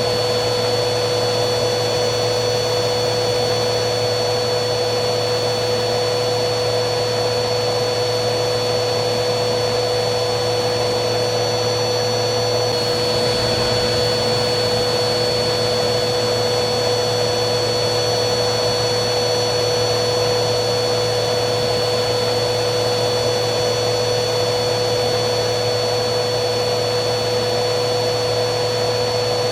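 Vacuum cleaner running steadily: a constant motor whine over a rush of air, with a slight shift in the high part of the whine about halfway through.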